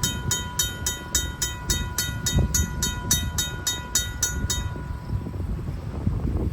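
RACO mechanical railroad-crossing bell ringing rapidly, about three or four strikes a second, stopping about four and a half seconds in. Under it, the cars of a freight train roll past the crossing with a low rumble and knocks.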